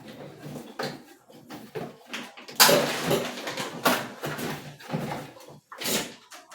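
Cardboard box and packing of a new coffee maker being opened by hand: irregular rustling and scraping, loudest in a few strokes around the middle.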